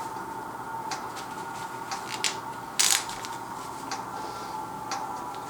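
Twist-off cap of a 40 oz glass malt liquor bottle being wrenched at by hand, with scattered small clicks and scrapes from the cap and grip. A short, sharp hiss-like burst about three seconds in is the loudest sound, as the tight cap breaks loose.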